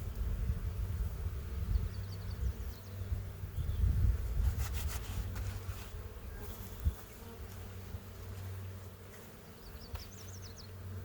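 Honeybees buzzing steadily around an opened hive, with a brief rustle of handling about four to five seconds in.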